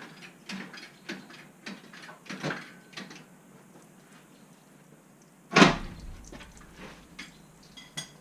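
Scattered metal clinks and knocks from hand tools and car parts being worked on, with one louder clank about five and a half seconds in.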